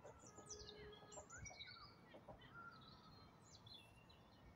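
Faint birdsong: small birds chirping and singing in quick, high notes.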